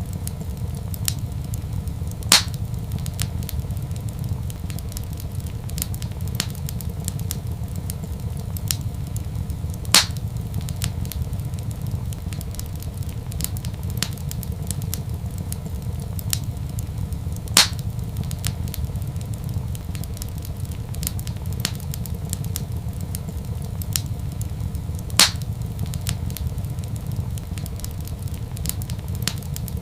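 Wood fire in a fireplace crackling, with many faint ticks and four louder sharp pops, one about every seven and a half seconds, over a steady low rumble.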